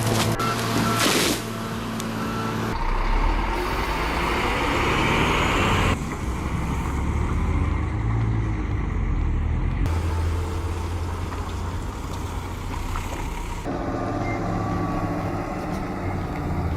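Heavy diesel truck engines running steadily, in a string of short clips that change abruptly every few seconds.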